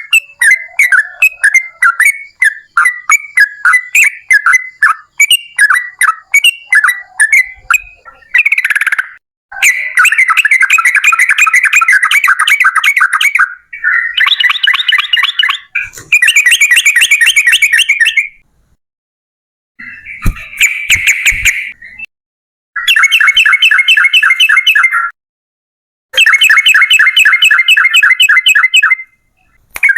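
Yellow-vented bulbul (trucukan) singing. For the first eight seconds it gives a run of quick separate chirps, about two or three a second; after that come long, fast chattering rattles, the 'ropel panjang' song, each lasting two to four seconds, with short pauses between them.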